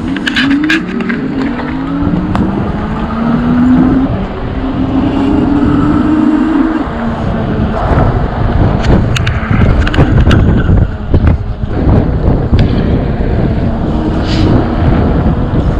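Road traffic: a vehicle engine rising in pitch as it accelerates over the first several seconds, then a steady low rumble with scattered clicks.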